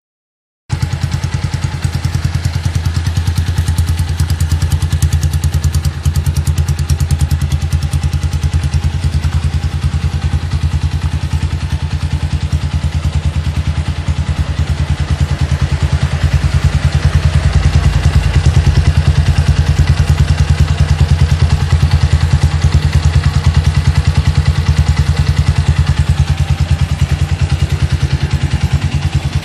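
Motorcycle engine running steadily through a loud custom-built muffler, its exhaust pulses coming fast and even, a little louder from about halfway through. The sound breaks up in places because the phone recording it cannot handle the loudness, not because of the muffler.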